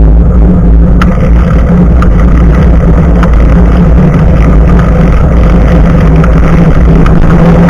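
Bicycle riding noise picked up by an action camera's microphone mounted just above the front tyre: loud wind buffeting and tyre rumble on the road, with a steady hum. From about a second in, more hiss and small rattles join in.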